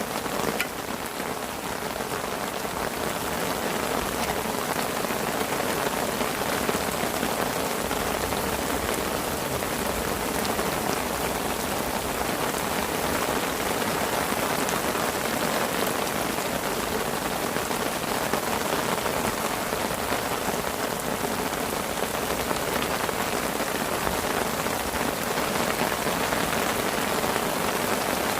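Rain falling steadily on a fishing parasol canopy, a dense, even patter of drops with no let-up.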